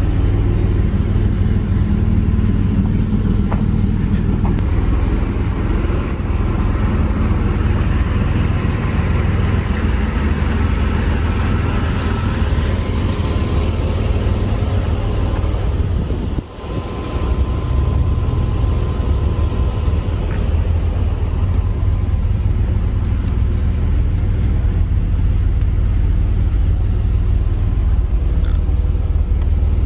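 A car engine running steadily under a low rumble of engine and road noise, with a brief dip in loudness a little past the middle.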